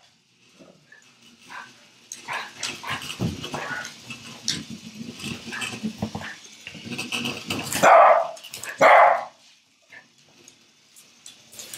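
Dog barking twice, loud and close, about eight and nine seconds in, after several seconds of quieter clicks and scuffling sounds.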